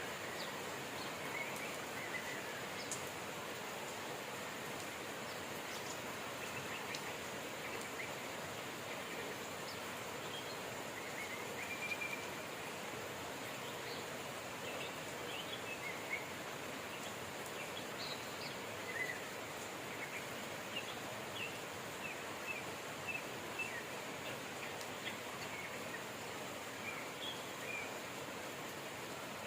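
Steady rain with birds chirping in short, scattered calls throughout.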